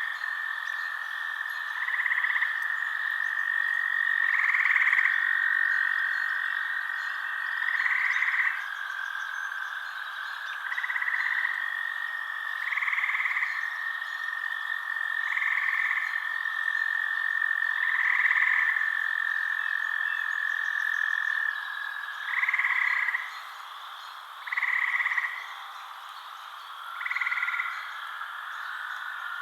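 Frogs calling at night: short calls repeating about every two and a half to three seconds over a steady high trill, which stops about three-quarters of the way through.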